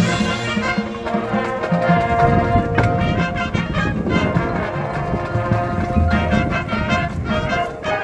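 High school marching band playing, its brass holding sustained chords, with a sharp percussion hit about three seconds in.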